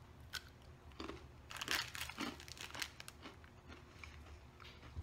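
Someone biting into and chewing a thin, crisp SnackWell's biscuit. There is a run of crunches, loudest about a second and a half in, then quieter chewing.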